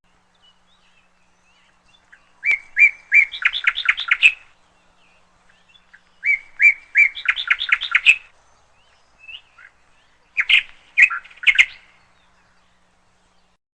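Canary singing: three short phrases of repeated high chirps, each starting with a few spaced notes and quickening into a fast run, a few seconds apart.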